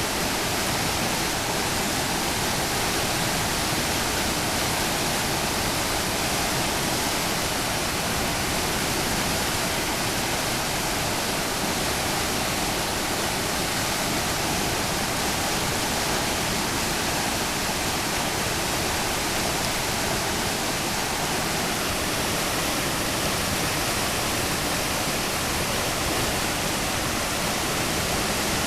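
The Calapooia River in flood: a steady, unbroken rush of fast-moving floodwater.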